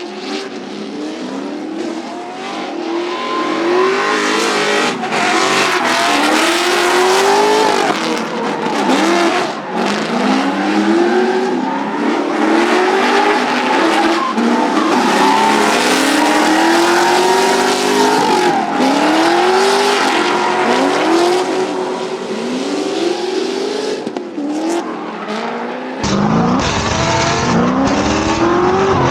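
Drift cars on the track, their engines revving in repeated rising sweeps under heavy throttle while the tyres squeal and skid. Near the end the sound turns fuller and deeper.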